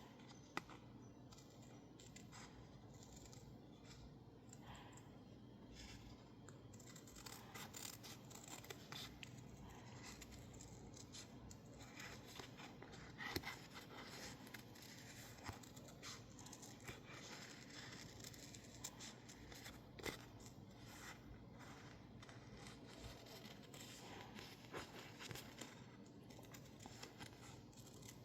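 Scissors cutting out stickers from label paper: faint, irregular snips, a few of them louder.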